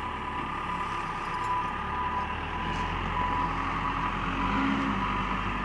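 Backhoe engine running, its low hum shifting deeper about two and a half seconds in as the machine takes up work, with a high beep repeating on and off.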